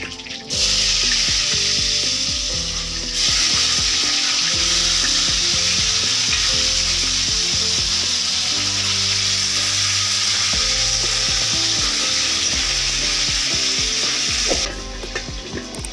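Food frying in hot oil in a pan, with a loud, steady sizzle. It starts suddenly about half a second in, grows louder around three seconds in, and cuts off near the end.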